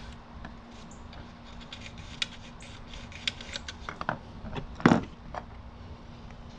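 Small metal clicks and clinks of screws and tools being handled while a metal panel is refitted on a lathe, with one louder clank about five seconds in.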